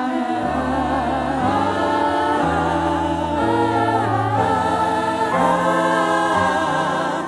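Church choir singing a Christmas praise song with band accompaniment. The voices hold long notes with vibrato over a bass line that steps from note to note.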